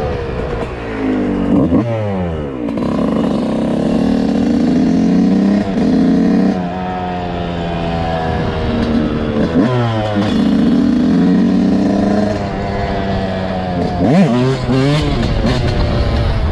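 Dirt bike engine revving up and down while riding, with sharp swings in pitch about every four seconds.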